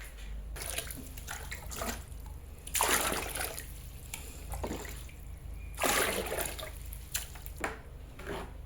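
Water splashing and pouring in short, uneven bursts, the two loudest about three seconds apart, over a low steady hum.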